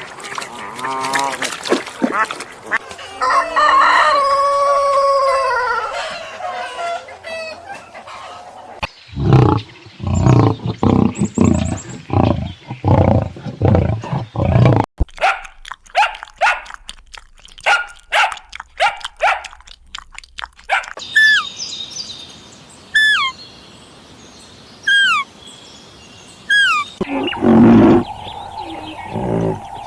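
A string of different animal calls, including a rooster crowing. Later come rapid pulsed calls, then short, high, falling calls repeated about every two seconds.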